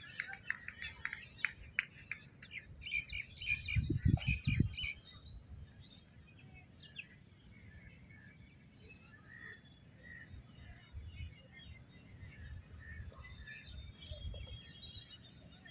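Birds chirping, many short high calls overlapping in the first few seconds, then fewer and more scattered. A brief low rumble about four seconds in.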